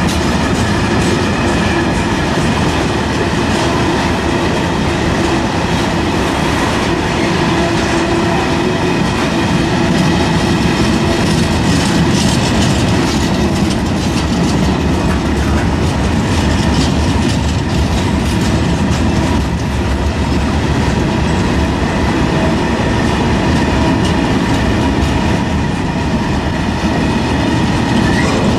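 Long freight train of covered hopper wagons rolling past at close range. Steel wheels on the rails make a steady, loud rolling noise, clicking over the rail joints, with faint thin whining tones from the wheels.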